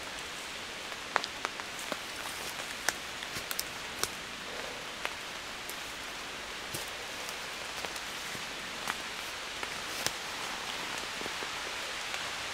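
Heavy rain shower falling on woodland leaves overhead: a steady hiss of rain with scattered sharp drops landing close by.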